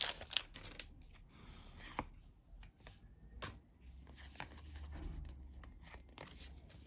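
Pokémon trading cards from a freshly opened booster pack being handled and flipped through by hand: quiet, scattered soft slides and clicks of card stock.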